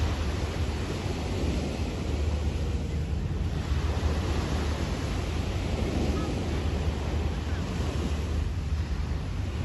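Sea waves washing onto a sandy beach in a steady wash of surf, with wind buffeting the microphone in a low rumble.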